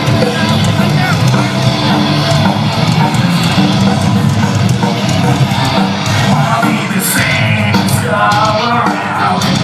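Live heavy rock band playing loudly: distorted guitars, bass and drums with singing, heard from the crowd.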